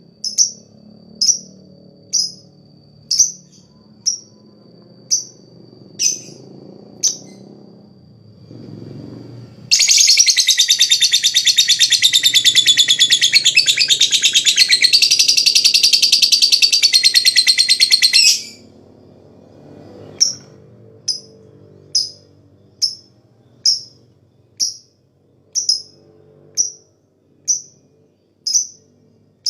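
Lovebird calling: sharp single high chirps about once a second (the 'ngetik'). About ten seconds in comes a loud, rapid, unbroken chattering trill of about eight seconds, the long 'ngekek' prized in singing lovebirds, and then the single chirps resume.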